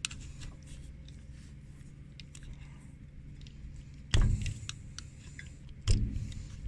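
Flathead screwdriver working at a metal plug in a hydraulic valve block: faint metallic clicks and scrapes over a steady low hum, with two heavy thumps about four and six seconds in.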